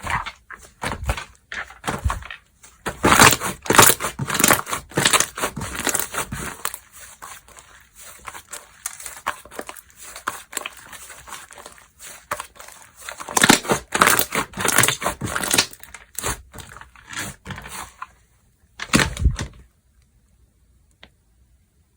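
Slime being squished and pressed by hand, giving rapid bursts of crackling, popping clicks. The crackling stops near the end.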